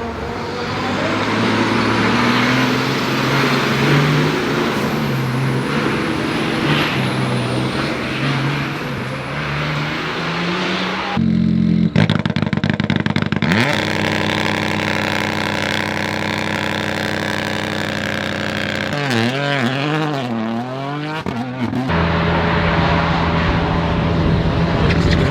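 Rally car engines revving hard and shifting through the gears on a forest rally stage, in several short clips joined by abrupt cuts; in one clip near the end the revs rise and fall rapidly several times.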